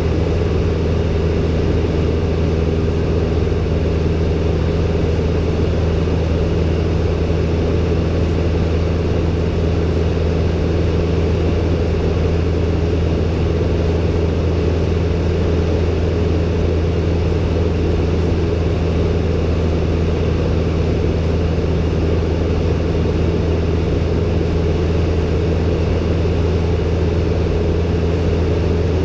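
Robin DR400-120 single-engine light aircraft's engine and propeller droning steadily in flight, a constant low hum that holds the same pitch throughout.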